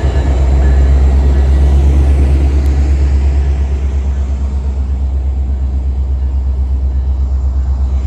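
Diesel locomotive of a Metra commuter train running at the station, a deep steady rumble that pulses evenly.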